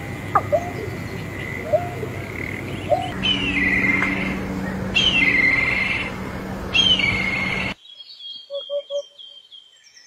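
Birds calling: short rising notes, then repeated falling whistled calls over a steady background hiss. About three-quarters through it switches abruptly to different birds, soft chirps in groups of three with higher twittering above them.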